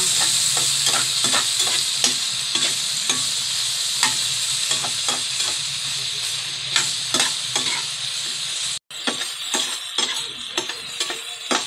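Tulingan (frigate tuna) steaks with onions, tomatoes and peppers sizzling in oil in a wok, stirred with a metal spatula that clinks and scrapes against the pan about once or twice a second. The sound cuts out for an instant near the end.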